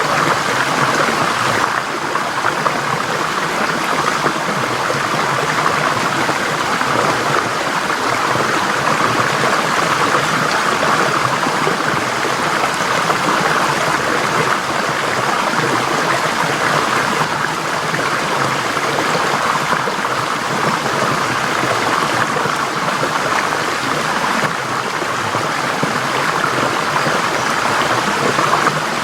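Forest stream flowing and gurgling over rocks in a steady, even rush of water.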